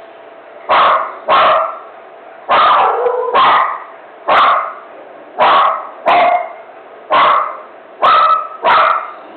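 A dog barking in a frenzy: about ten short, loud barks, often in quick pairs, roughly one a second.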